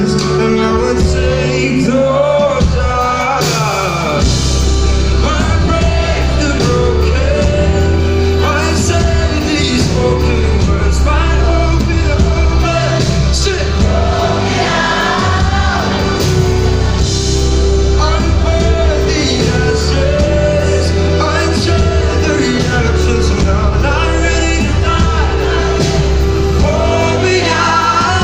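Live band music with a singing voice over it, loud throughout; a steady, heavy bass line comes in about four seconds in.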